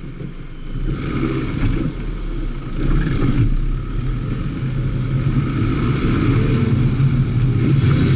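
Car engine revving as the car pulls away from a standstill and accelerates hard through a cone course. It gets louder over the first three seconds, then holds at high revs.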